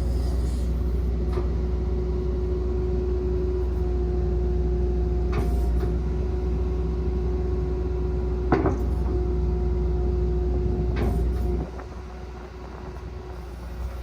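Kobelco SK135SR-2 excavator running steadily with a low diesel rumble and a steady whine, punctuated by four short clunks, the loudest about two thirds of the way through. The rumble drops away abruptly near the end.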